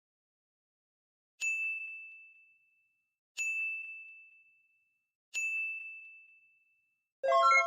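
Three identical bell dings about two seconds apart, each a single high tone struck sharply and fading over a second or so. Near the end comes a louder, brighter chime of several notes at once.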